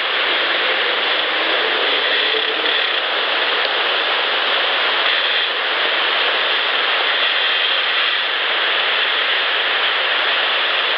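Steady, loud hiss of an amplified outdoor field recording, with no distinct events standing out.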